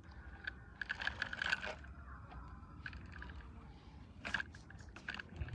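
Small hard clicks and light scraping, as of hard objects being handled: a quick rattling cluster about a second in, then a few separate clicks near the end, over a low steady hum.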